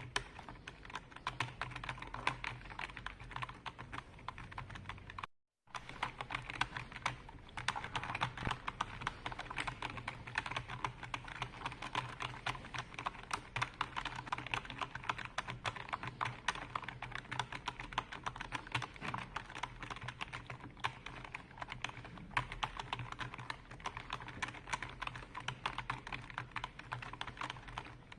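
Continuous fast typing on a computer keyboard: a dense, unbroken stream of key clacks, briefly cut to total silence a little over five seconds in.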